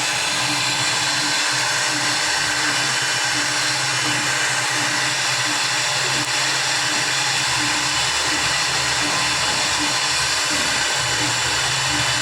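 CNC engraving machine running steadily, its high-speed spindle giving a continuous whine, with a lower hum that comes and goes irregularly.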